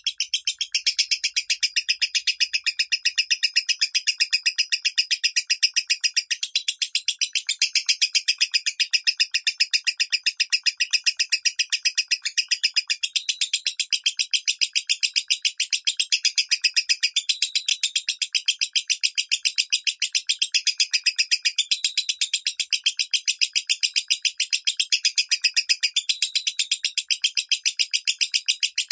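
Lovebird singing its 'minor' song: a continuous, rapid chatter of high, shrill chirps repeated several times a second without a break.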